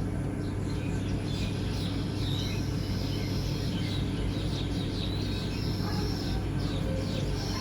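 Small birds chirping repeatedly in quick, high notes, with a few longer whistled notes, over a steady low hum.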